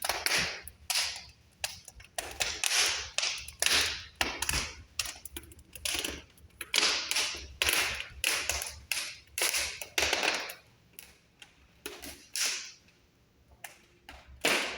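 Irregular sharp clicks and knocks, about one or two a second, each with a short ringing tail.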